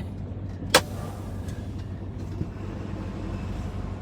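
Semi truck's diesel engine idling steadily, a low even hum, with a single sharp click about three quarters of a second in.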